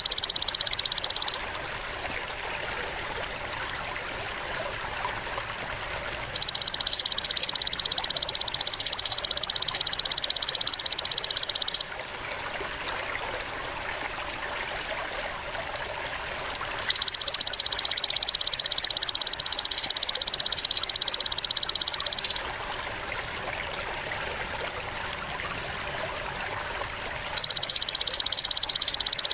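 Golden grasshopper (belalang emas) stridulating in loud, high, dense buzzing bursts of about five seconds, each starting and stopping abruptly, repeating about every ten seconds as a loop. A much quieter outdoor background fills the gaps.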